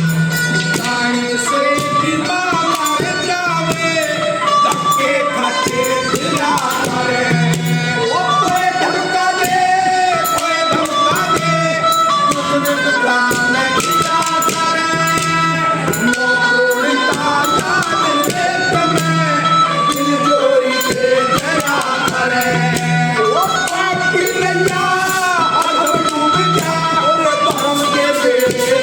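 Haryanvi folk song: a male voice singing a bending, ornamented melody over tambourine jingles and drum percussion, playing continuously.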